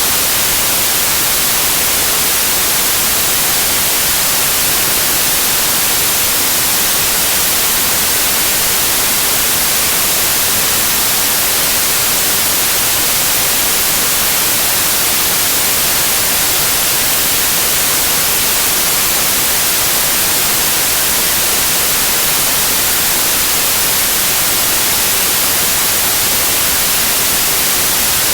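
Continuous TV-static white noise, an even, unchanging hiss with most of its energy in the treble.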